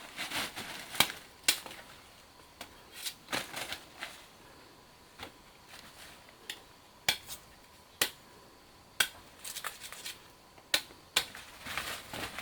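About a dozen irregular sharp snaps and crackles with soft rustling between: plant material being cut or broken by hand.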